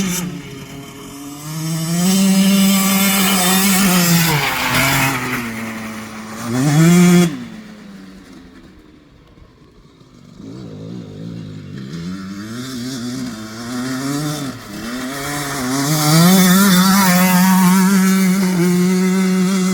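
Husqvarna TC65 two-stroke dirt bike engine being ridden, its revs repeatedly climbing and dropping as it goes through the gears. About halfway through it fades to a low for a few seconds, then revs back up and holds high near the end.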